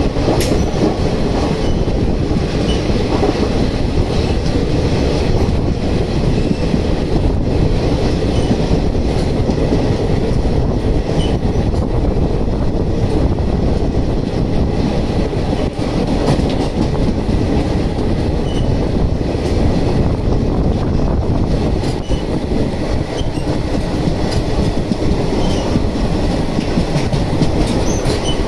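Passenger train running on the rails: a steady rumble of wheels on track with a little rattle.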